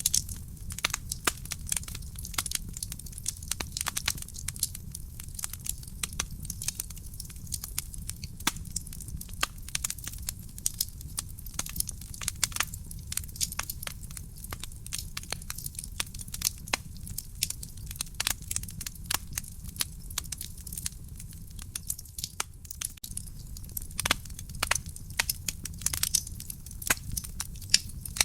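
Wood fire crackling in a fireplace: a dense, irregular run of sharp pops and snaps over a steady low rumble of burning.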